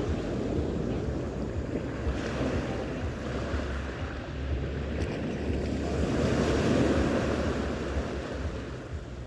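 Sea waves washing on the shore, with wind buffeting the microphone in a low rumble. The surf swells louder a little past halfway through.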